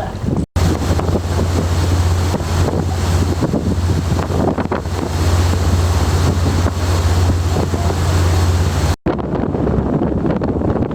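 A sightseeing boat's engine drones steadily under rushing water and heavy wind buffeting the microphone. The sound cuts out abruptly twice, once about half a second in and once near the end, and after the second cut the drone is fainter.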